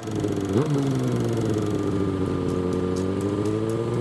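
Motorcycle engine blipped once about half a second in, then running steadily with its pitch slowly rising. A regular ticking, about four a second, joins a little after two seconds.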